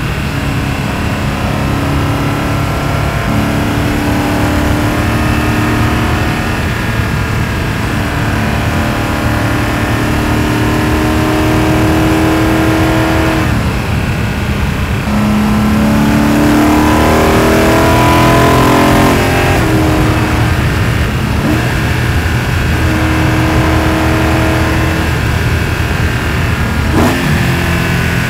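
BMW E92 M3's S65 V8 (catless, straight-piped), heard through exhaust and intake-plenum microphones, driving on the road. The engine note holds and steps between gears several times. A little past halfway it rises in pitch for about three seconds under acceleration, then drops back.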